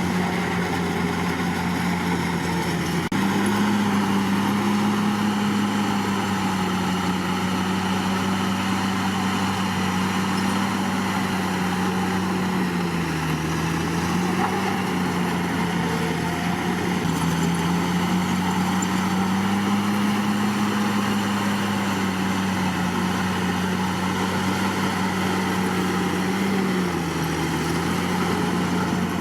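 Komatsu D61PX bulldozer's diesel engine running steadily. Its pitch steps up about three seconds in and dips briefly a few times as the engine speed changes.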